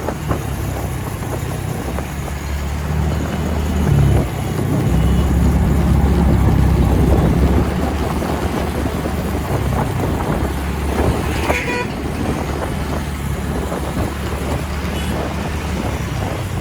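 TVS Ntorq 125 scooter's single-cylinder engine and wind rush while riding on the highway, a steady low drone that grows louder about four seconds in. A short toot, like a vehicle horn, sounds about two-thirds of the way through.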